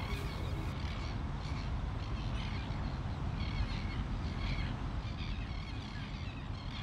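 Birds calling over a steady low background noise: short calls repeat every half second or so.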